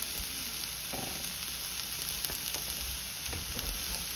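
Shredded cabbage coleslaw mix sizzling in sesame oil in a frying pan on the stove: a steady frying hiss with small scattered crackles.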